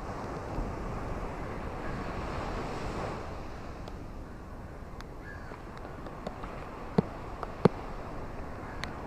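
Ocean waves washing on a beach, one wave swelling and breaking about two seconds in, then a few sharp clicks, two of them loud, near the end.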